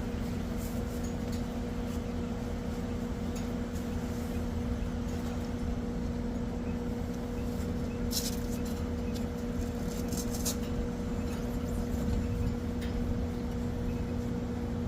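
Outdoor air-conditioning condenser unit running with a steady hum and a low rumble, with a few light clicks about eight to ten seconds in.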